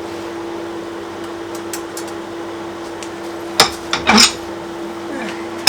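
Steel forging tools and workpieces clanking and clattering on metal: a sharp clank about three and a half seconds in, a short scraping rattle just after, and another sharp clank at the end. Under it a steady fan hum.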